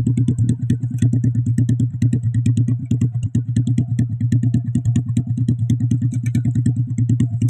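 Motorcycle engine running steadily at low revs with an even, rapid throb, as the bike hauls a sack of unhusked rice through deep mud.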